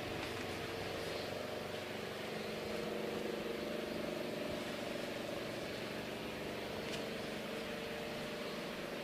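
A steady mechanical hum: a constant drone over an even background hiss, holding level throughout.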